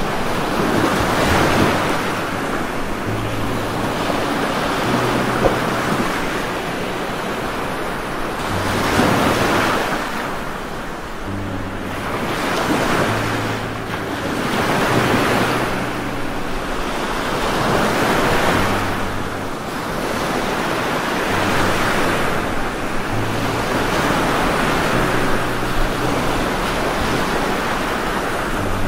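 Heavy rain with gusting wind: a steady rushing noise that swells and eases every few seconds, with a low hum coming and going underneath.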